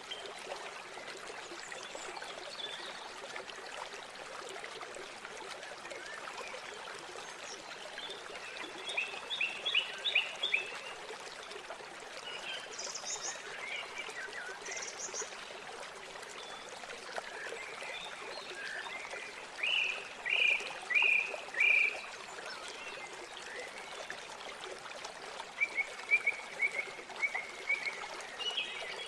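River water running steadily, with birds calling over it: clusters of short, quick chirps about a third of the way in, again about two-thirds in, and near the end, plus a few high thin notes in between.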